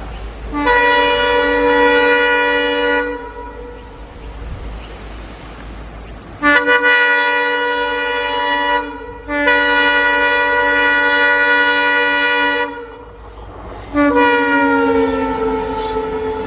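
Diesel locomotive horn sounding four long blasts of a multi-note chord, each lasting about two to three seconds. The last blast slides down in pitch as the train passes. A low rumble of the running train lies beneath.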